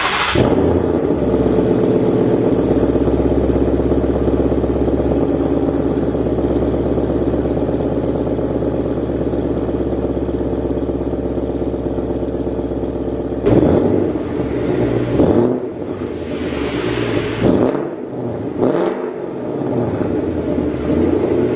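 Ford Mustang GT 5.0 V8 exhaust, sound-up tuned on the factory system, idling steadily. From about 13 seconds in it is blipped several times in quick revs.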